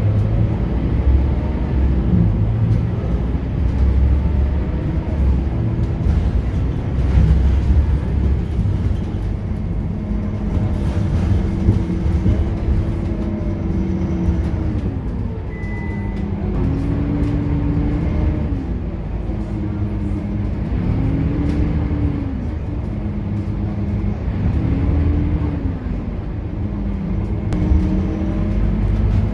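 Scania K230UB bus on the move: its five-cylinder diesel engine runs with a heavy low rumble under a whine from the ZF automatic gearbox. The whine holds steady for a stretch, then dips and climbs in pitch several times in the second half as engine speed changes.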